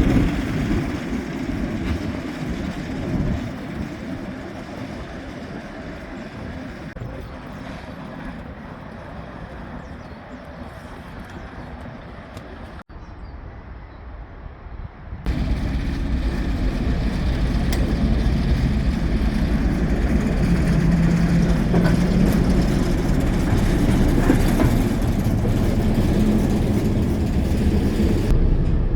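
Heritage railway train running: a low rumble fading away over the first half. After a sudden cut about halfway, a louder steady low rumble with a faint hum.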